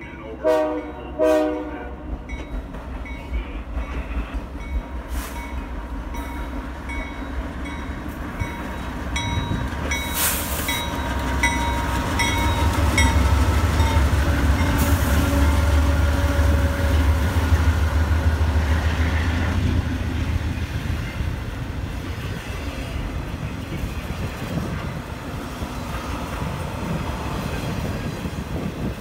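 A train sounds its horn in two short blasts, then rolls past. Its heavy low engine rumble swells to a peak about halfway through and eases off, with wheels clicking and clattering over the rails throughout.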